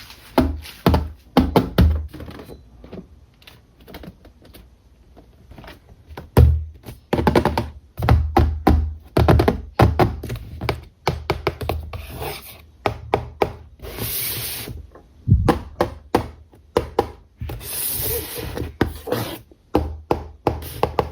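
A toy car's box and packaging being handled and opened by hand: an irregular string of taps, knocks and clicks, with a few longer rustling scrapes, the loudest about two-thirds of the way through.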